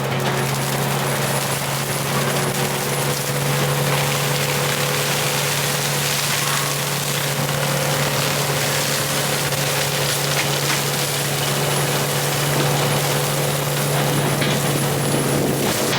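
Tracked skid steer with a brush-mulching attachment running: a steady diesel engine drone under a constant rushing, grinding noise.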